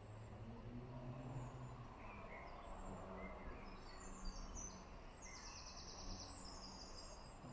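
Faint outdoor ambience of small birds: scattered high chirps and a fast trill about five seconds in, over a low steady rumble.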